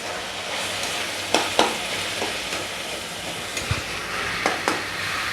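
Chicken mince and onions sizzling steadily in hot mustard oil in an uncovered kadai, with a few short clicks of a utensil against the pan as it is stirred.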